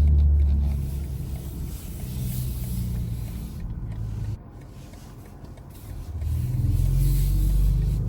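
BMW i4 M50 electric car driving, with a low rumble of road and drivetrain noise. It drops suddenly about four seconds in and swells back up near the end.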